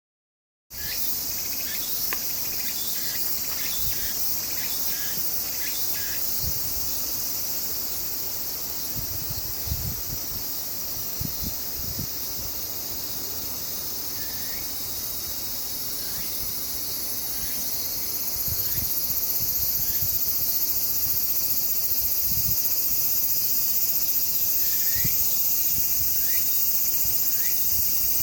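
Steady, high-pitched insect chorus that starts abruptly and grows louder about two-thirds of the way through, with a few short chirps and some low thumps.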